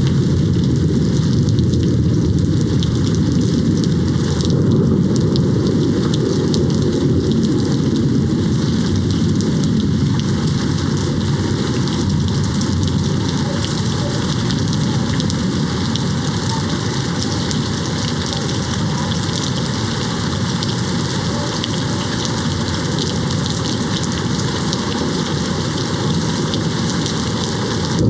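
Steady rain beating on a window, an even unbroken wash of sound that is heaviest in the low range, with no distinct thunderclap.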